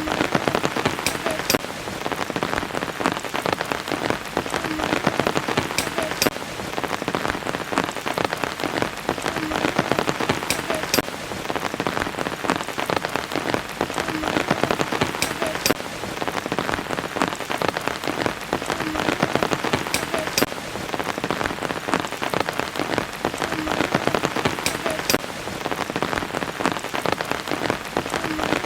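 Steady rain falling, a dense patter with sharper single drops striking now and then. The same stretch of rain repeats every four to five seconds, as a loop.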